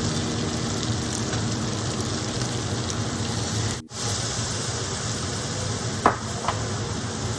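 Chicken frying in a pan, a steady sizzle that cuts out for an instant about four seconds in, with two light clicks near the end.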